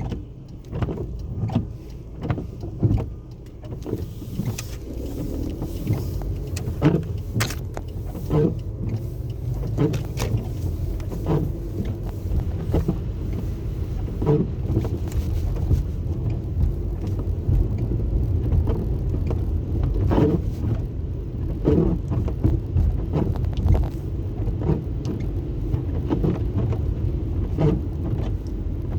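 Car driving, a steady low road rumble with frequent small knocks and clicks over it.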